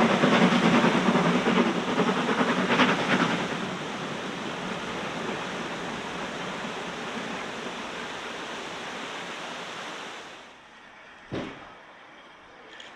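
A steam train passing and fading away: a loud rush of rail and steam noise that eases off over the first few seconds, settles into a quieter steady rush, then drops away, with one sharp knock near the end.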